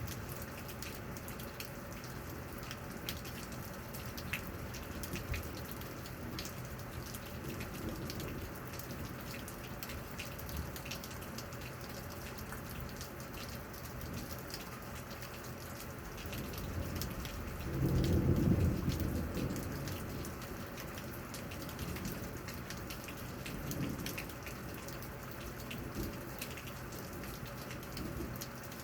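Steady rain, with individual drops ticking close by. About two-thirds of the way in, a low rumble of thunder swells for a few seconds and then fades back under the rain.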